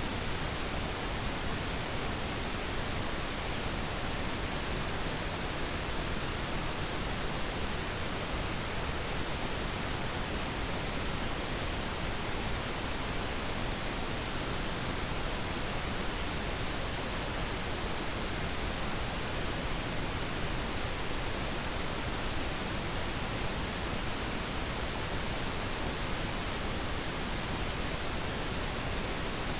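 Steady pink noise, an even hiss that does not change.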